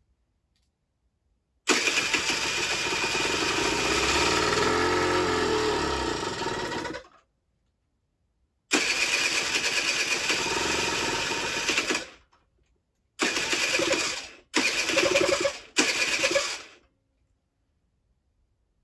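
The Generic Trigger SM's 50cc two-stroke engine being cranked on its electric starter from a jump pack in five bursts, a long first one, then a shorter one and three brief ones; it catches only for a split second on fuel squirted into the cylinder. Firing only with fuel in the cylinder points to a carburettor fuel problem, which the owner suspects is a blocked pilot jet.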